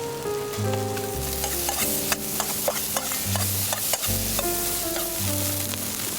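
Food sizzling and frying in a pan, stirred with a metal ladle that clicks and scrapes against the pan many times; the sizzle grows louder about a second in. A melodic music track plays underneath.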